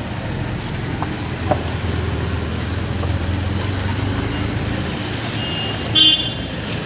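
Street traffic with vehicle engines running, and a short car horn toot about six seconds in, the loudest sound.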